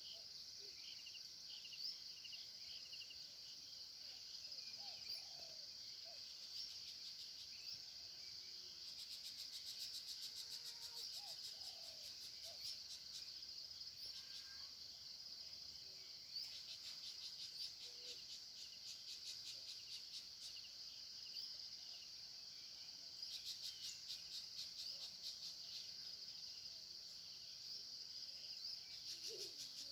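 Faint chorus of insects, crickets among them, with a steady high-pitched buzz. Stretches of fast pulsing trill join it several times, and a few faint short bird calls come and go.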